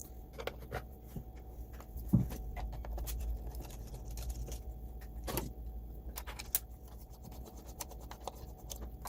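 Scattered light clicks and small knocks of the plastic parts of a Roomba i7 robot vacuum being handled during disassembly and cleaning, with a louder knock about two seconds in and another about five seconds in, over a low steady hum.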